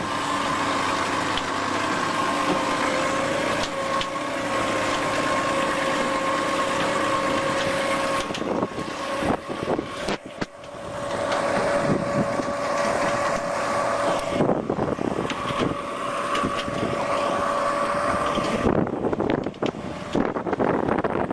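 Truck engine running under load with a steady whine, which changes abruptly several times; irregular rumbling and buffeting near the end.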